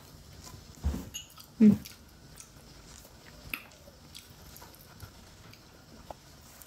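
Close-up mouth sounds of chewing a steamed momo dumpling: soft wet clicks and smacks, scattered and irregular. There is one louder, short pitched sound about a second and a half in.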